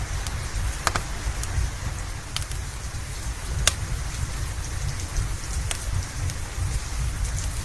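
Steady rain over a low rumble, with a few sharp crackles and pops from a wood fire in a fireplace.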